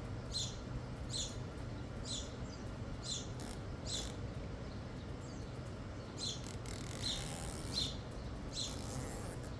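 A small bird chirping over and over, a short high chirp about every two-thirds of a second, over a steady low hum. A short hiss comes in near the end.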